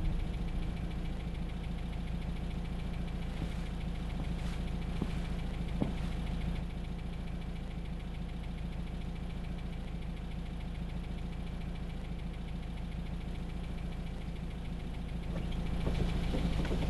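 Car engine idling steadily, heard from inside the cabin, with a few faint clicks about four to six seconds in.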